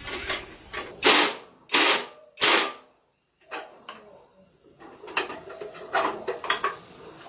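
Three short, loud mechanical bursts about two-thirds of a second apart, followed after a brief gap by lighter clicks and clatter of metal tools.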